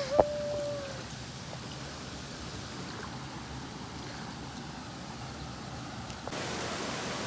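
Steady rushing of a waterfall, an even hiss of falling water; it jumps abruptly louder and brighter about six seconds in.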